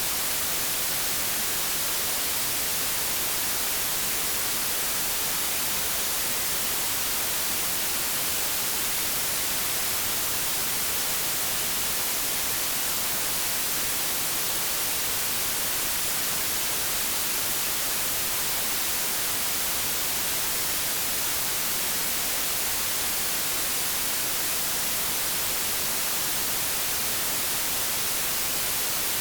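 White noise: a steady, even hiss of static like an untuned TV or radio, unchanging throughout.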